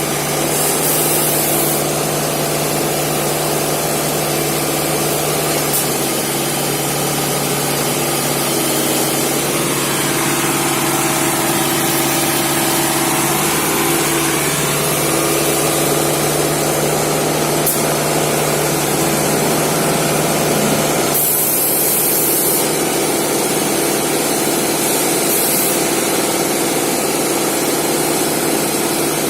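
Engine of road-repair machinery running steadily at a constant speed. Short, high hisses break in a few times: about a second in, at about 21 seconds, and at about 25 seconds.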